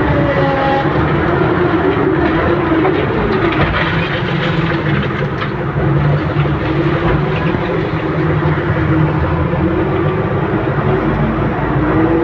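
Wheel loader's diesel engine running under load, its pitch rising and falling as it revs up and down.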